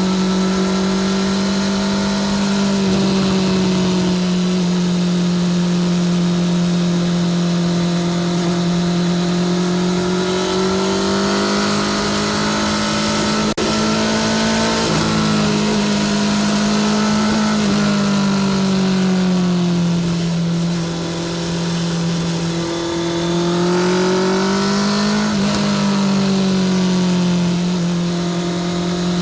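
Honda CBR650R's inline-four engine through a Spark full titanium short exhaust, running steadily at mid revs. Its pitch rises and falls slowly a few times with the throttle, easing off briefly past the middle.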